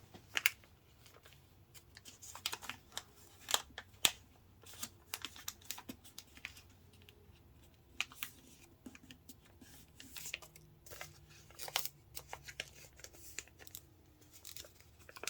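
A sheet of paper being folded and creased by hand into a paper airplane: quiet, irregular rustles and short sharp crackles as the paper is handled and pressed flat.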